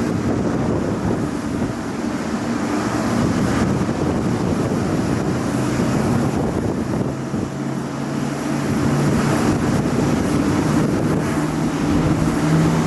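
Jet airliner's engines running, a loud steady rumble, with a low hum joining about six seconds in and growing louder near the end.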